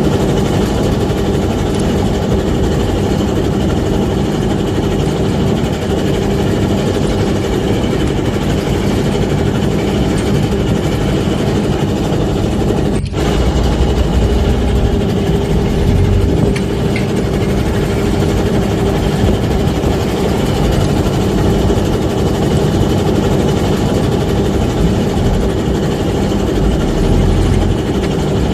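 A small fishing boat's engine running steadily, a loud continuous drone with a deep rumble under it. It cuts out for an instant about halfway through.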